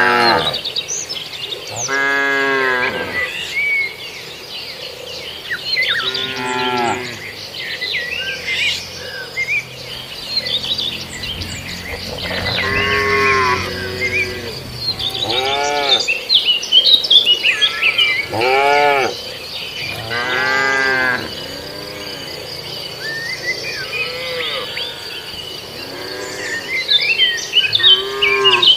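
Cattle mooing repeatedly, about eight long drawn-out moos spread a few seconds apart, some from different animals at different pitches.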